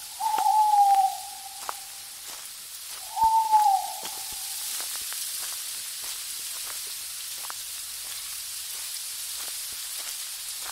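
Two drawn-out hooting calls, each about a second long and dipping slightly in pitch at the end, the second about three seconds after the first. A steady hiss follows.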